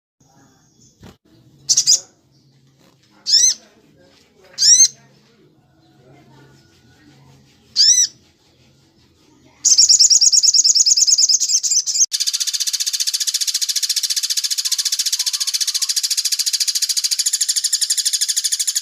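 Bird calls: four short, sharp high calls a second or two apart, then a loud, continuous rapid trill starting about halfway through that turns into a denser rattle a couple of seconds later and keeps going.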